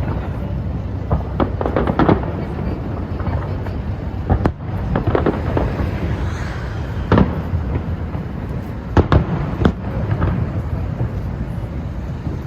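Firework display: aerial shells bursting in sharp bangs at irregular intervals over a continuous low rumble, with a quick pair of bangs about nine seconds in.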